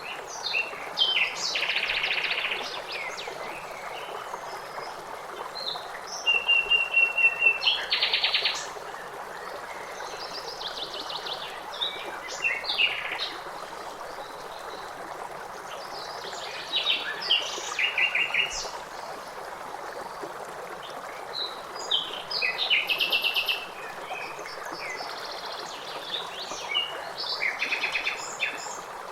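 Songbirds singing in short phrases of chirps and rapid trills every few seconds over the steady rush of flowing water.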